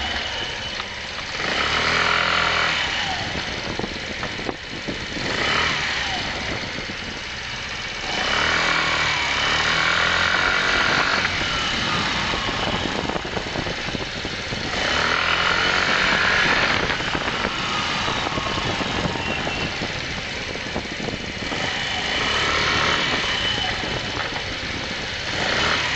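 A 鐵拳 125 motorcycle's engine running while it is ridden in an underground car park, rising in repeated louder swells every six or seven seconds and easing off between them. The ride is recorded to show an abnormal noise the bike makes.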